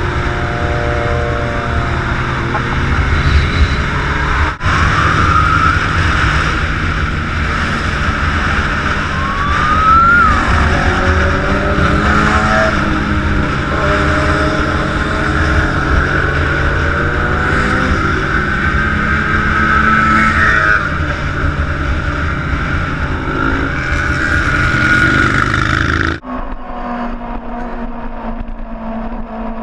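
Engines of several big motorcycles running together, their revs rising and falling now and then. About 26 seconds in the sound changes abruptly, turning duller and a little quieter.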